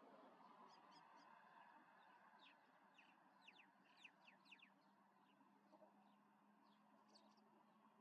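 Faint wild bird calls: a quick run of short, high, sharply falling notes in the middle, with a few scattered chirps before and after, over a very quiet outdoor background.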